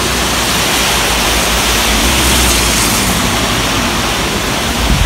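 Heavy tropical rain pouring down in strong gusty wind, a steady hiss of rain. Underneath is a low rumble of wind buffeting the microphone, briefly stronger about two seconds in.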